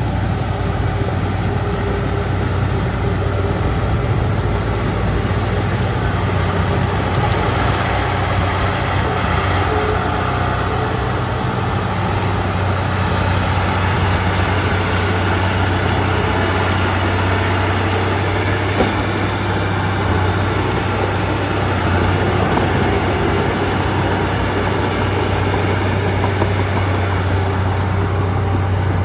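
Heavy-equipment diesel engine running steadily with a deep, even hum, with one small click about two-thirds of the way through.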